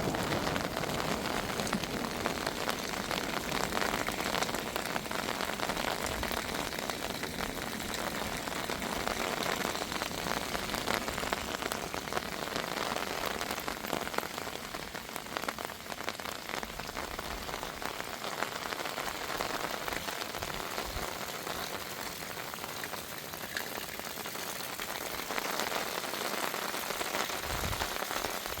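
Heavy rain falling steadily as an even hiss, with the tail of a thunder rumble dying away at the start.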